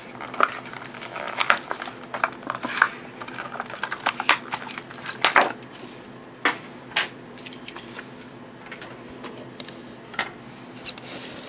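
Plastic blister packaging of a carded Hot Wheels diecast car being pried and torn open: a quick run of sharp clicks and crackles for the first six seconds or so, then a few scattered clicks.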